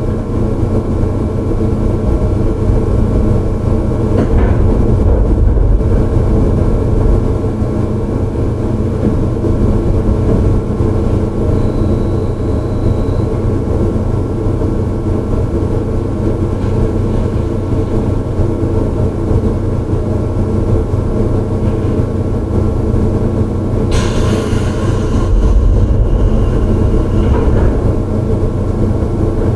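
Running sound inside a JR 211-series electric train, motor car MoHa 210-3027: a steady rumble of wheels on rail and MT61 traction motors as the train travels along. About 24 seconds in, a brief harsher noise rises over the rumble.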